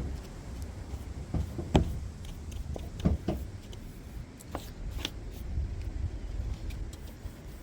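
A few sharp knocks and clicks over a steady low rumble; the loudest knock comes a little under two seconds in.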